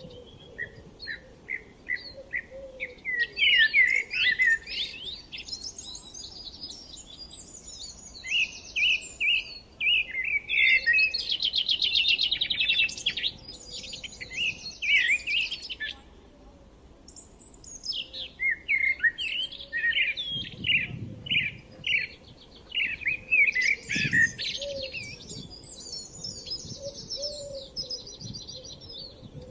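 Several forest songbirds chirping and singing over one another in rapid repeated notes and trills, with a short lull about halfway through.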